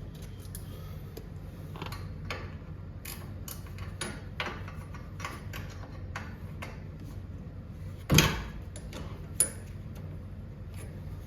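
Hand wrench clicking irregularly as the set bolts on a garage door cable drum are tightened, with one louder metal clank about eight seconds in.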